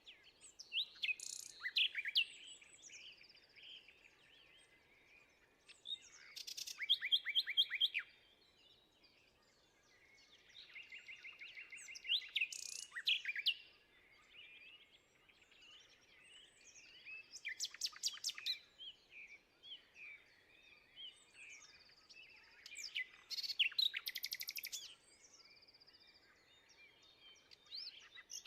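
A songbird singing, repeating a complex song phrase of about two seconds with fast trills and quick sweeps about every five to six seconds, with faint chirps between phrases.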